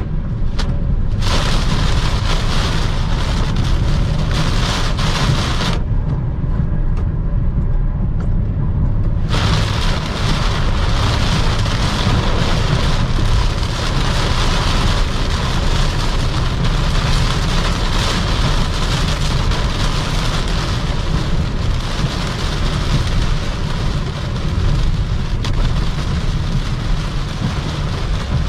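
Rainstorm pelting a Toyota Camry driving fast on a highway: a steady hiss of rain over a deep rumble of tyres and wind. The rain hiss drops away for about three seconds around six seconds in, then comes back.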